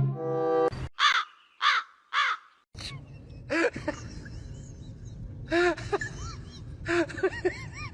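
Music ends, then three loud bird calls follow one after another. After that come more bird calls in short groups over a steady background noise.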